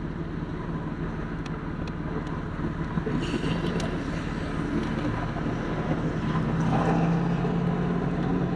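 Steady vehicle engine hum, like a car running or idling, growing a little louder in the second half, with a few faint light clicks.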